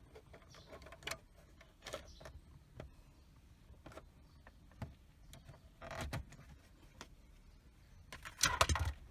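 Scattered light clicks and knocks of parts and tools being handled as a component is removed, with a louder scraping rustle near the end.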